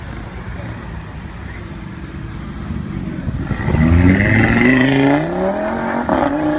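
Car engine rumbling low, then accelerating hard from about three and a half seconds in, its pitch climbing steeply. The pitch dips briefly near the end, as at a gear change, then climbs again.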